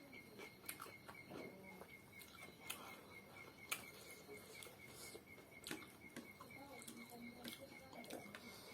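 Faint close-up eating sounds: scattered, irregular mouth clicks and small chewing and smacking noises. A faint steady high whine runs underneath.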